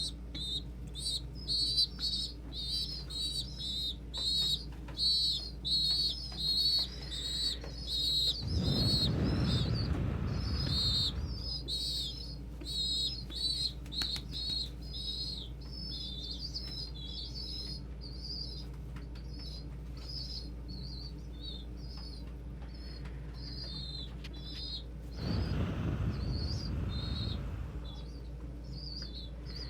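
Young pigeon squabs begging with rapid, repeated high-pitched squeaks that thin out toward the end. Two bursts of wing flapping come about 9 and 26 seconds in, over the steady hum of a fan.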